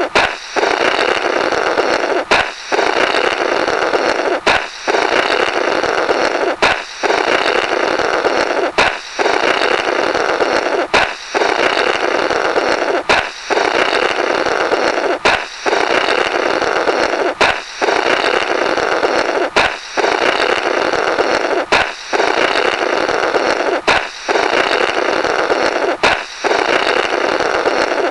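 Comical 'blorrrt' balloon sound effect: a sharp balloon pop followed by a long blowing blurt through the burst rubber, repeated over and over about every two seconds.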